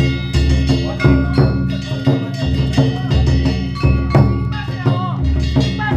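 Danjiri festival music: a big taiko drum beating about once a second, with metal hand gongs (kane) struck in a steady rhythm and ringing between the beats.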